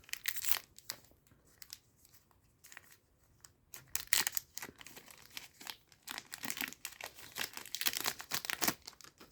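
Foil booster pack of trading cards being torn open and crinkled by hand, in irregular crackly bursts that are busiest in the second half.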